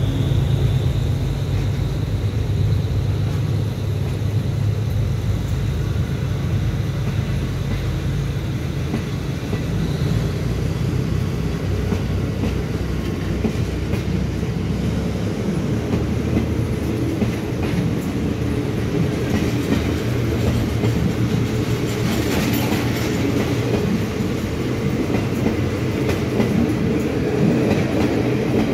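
Locomotive-hauled passenger coaches of a Thai suburban commuter train rolling slowly along the platform, wheels clicking over the rail joints over a steady low rumble.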